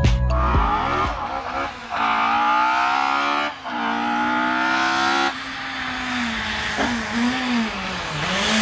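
Rally car engine accelerating hard, its pitch climbing and holding high with a short dip about three and a half seconds in. About five seconds in the revs drop sharply, then rise and fall repeatedly at a lower pitch.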